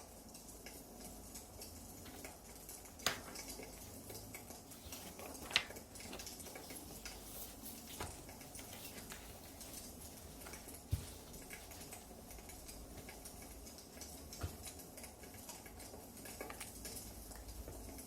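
Wood fire burning in a fireplace, crackling faintly with a soft hiss and a handful of sharper pops spread through.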